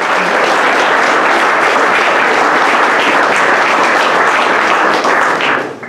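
Audience applauding steadily, dying away just before the end.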